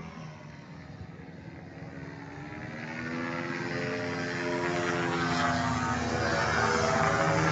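A small engine running at a fairly steady pitch, growing louder from about halfway through as it comes closer.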